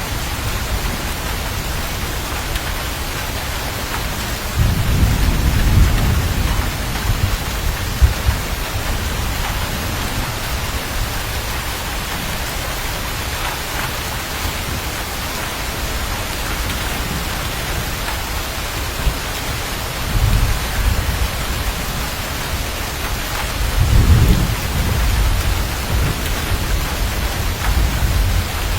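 Steady heavy rain with thunder rumbling low several times, the strongest rumbles about five seconds in and near the end.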